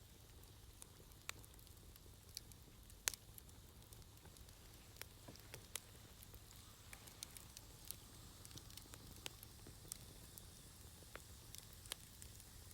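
Wood fire burning in a Snow Peak fire pit, crackling with irregular sharp pops and ticks over a soft hiss; one pop about three seconds in is louder than the rest.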